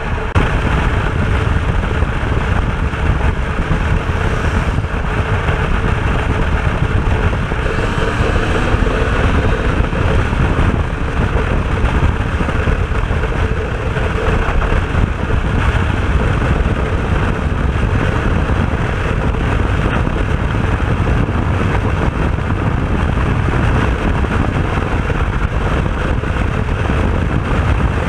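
Heavy wind noise on the microphone from riding at speed, with a two-stroke RS250 motorcycle engine running underneath; around eight to ten seconds in the engine pitch rises and falls a few times.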